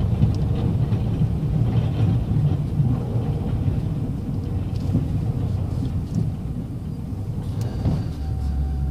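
Snowplow truck running with a steady low rumble as its blade scrapes salt-softened, slushy ice off the pavement. A steady hum comes in near the end.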